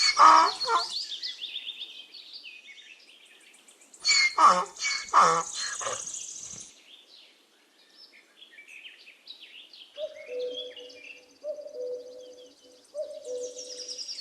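Donkey braying: a loud pulsed call trails off at the start and another comes about four seconds in, with small birds chirping in the background.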